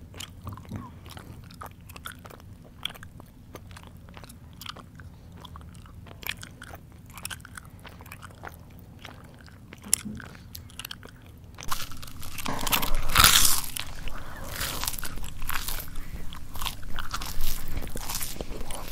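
Close-miked mouth chewing with small wet clicks and smacks, then louder, denser crunching of crisp food about two-thirds of the way in.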